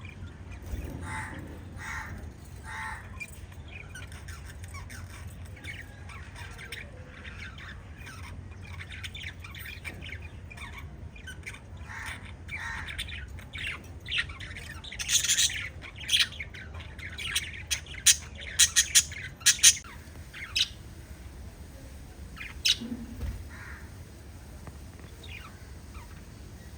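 Several pet budgies chirping and squawking, with a louder run of quick, sharp calls around the middle and sparser chirps after, over a steady low hum.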